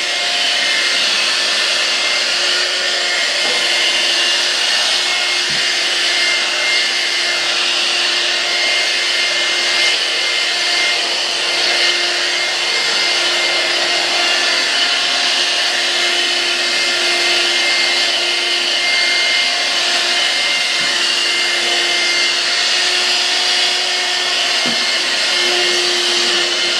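Vacuum cleaner running steadily, its motor giving a constant whirring hum, with a few faint knocks.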